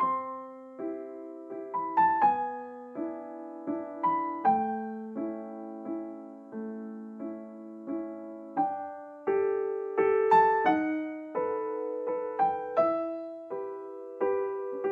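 Background piano music: a slow, gentle melody over chords, each note struck and left to fade.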